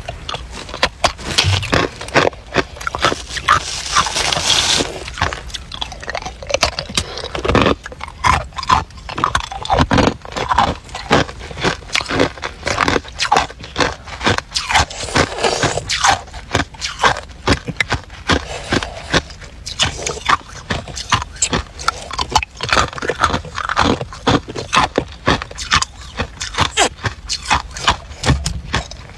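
A person chewing hard ice cubes and crushed ice close to the microphone: a dense, uneven run of sharp crunches, several a second.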